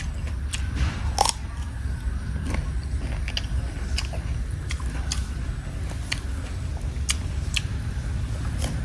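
A person chewing and biting crunchy fruit, with crisp crunches coming about every half second over a steady low rumble.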